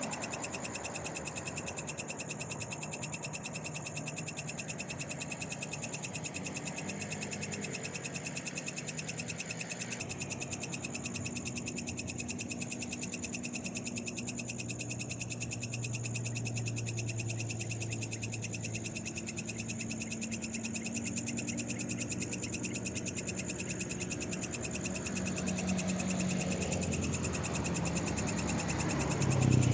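Night chorus of frogs calling over a steady high trilling of insects, with a brief louder swell near the end.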